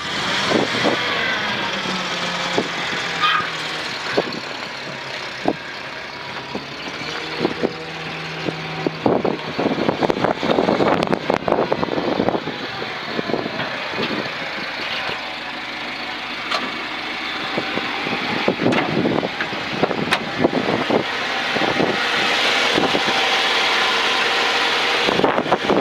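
1985 Ford F600 dump truck's engine running, its pitch drifting up and down, with scattered knocks and rattles throughout.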